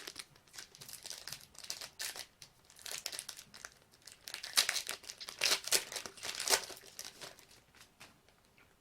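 Foil wrapper of a Panini basketball card pack crinkling and tearing as it is opened and handled. The crackling comes in irregular bursts, loudest about halfway through, and fades out near the end.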